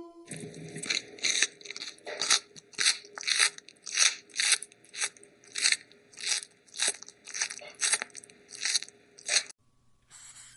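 An animal chewing crunchy food close up, a regular crunch about twice a second, stopping near the end.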